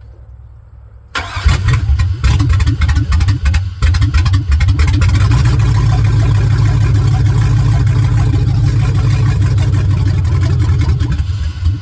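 A vehicle engine starts about a second in, running rough and uneven for the first few seconds, then settles into a loud, steady run. It cuts off abruptly near the end.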